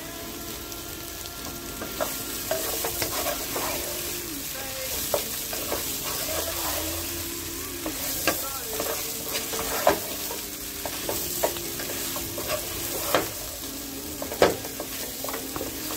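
Diced boiled potatoes sizzling as they fry in oil in a pan, stirred and tossed with a wooden spatula. Irregular sharp knocks of the spatula against the pan sound over the steady sizzle.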